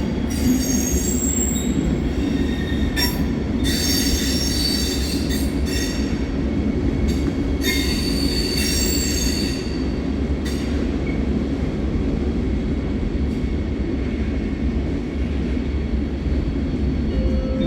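A train moving slowly through the station over a steady low rumble, its wheels squealing high several times during the first ten seconds or so.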